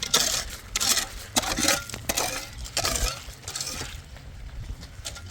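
Metal kitchenware clinking and scraping in a quick series of short strokes, easing off after about four seconds.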